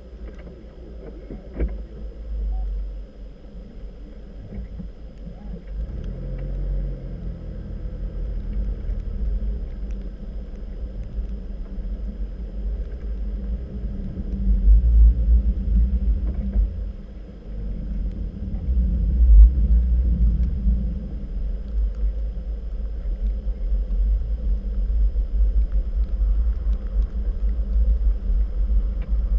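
Low, steady rumble of a car being driven, heard from inside the cabin, swelling louder twice in the middle. A single sharp click sounds near the start.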